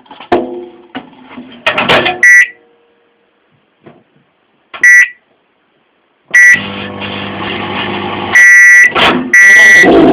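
Microwave oven: a few single keypad beeps, then the oven running with a steady hum for about two seconds, then its loud end-of-cycle beeps, three long ones in a row.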